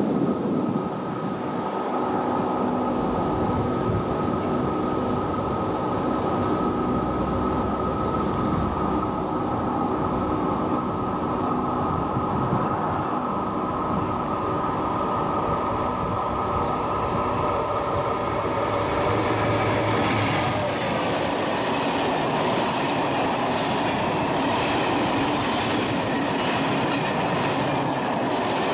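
Finnish timber freight train hauled by a VR Sr1 electric locomotive approaching with steady humming tones over rail noise, the locomotive passing about twenty seconds in with a slight drop in pitch. Loaded log wagons then roll by, their wheels clattering on the rails.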